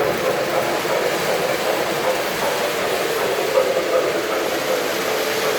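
Model train running along its track, a steady mechanical running noise of motor and wheels on rail.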